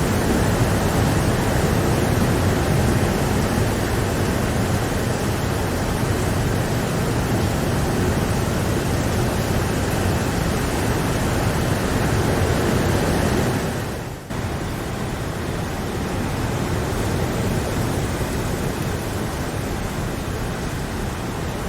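Steady heavy rainfall, a dense even hiss. About two-thirds through it dips for a moment and comes back slightly quieter.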